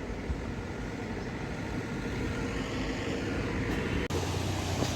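Engine rumble of a road vehicle, slowly growing louder. About four seconds in it cuts off suddenly, and a steadier low hum takes its place.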